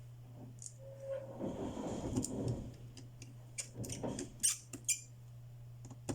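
Small tools and phone parts being handled during reassembly of a smartphone: soft scraping, then a few sharp light clicks and taps of a small screwdriver and screws, over a steady low hum.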